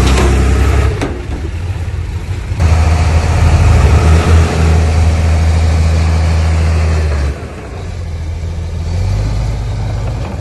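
Heavy diesel engine of an earthmoving machine running. It rises to a loud steady pull about two and a half seconds in, drops back suddenly after about seven seconds, then builds again near the end.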